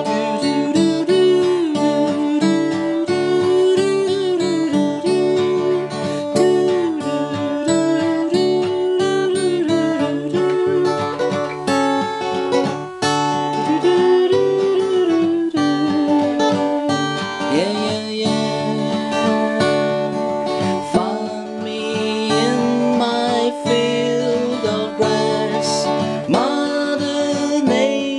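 Martin D-28 acoustic guitar played in an instrumental passage, its plucked notes and chords running throughout. A smooth, wordless vocal melody with gliding pitch rides over the guitar for about the first half.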